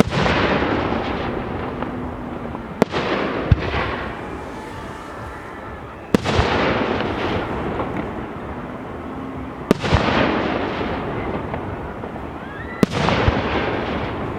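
Fireworks display: aerial shells going off with sharp bangs about every three seconds, six in all. Each bang is followed by a dense, crackling, hissing tail that fades over two or three seconds.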